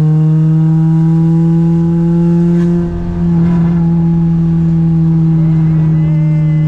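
Toyota 2ZZ-GE inline-four engine in a Corolla, pulling under throttle in gear. Its pitch rises slowly for the first few seconds, there is a brief drop in level about three seconds in, and then the engine holds a steady note.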